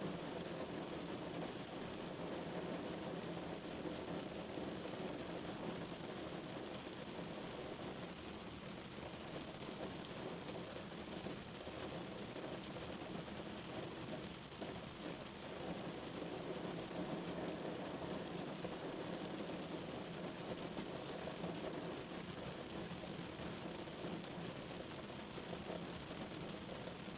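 Steady rain falling on a car, an even unbroken wash of drops that holds the same level throughout.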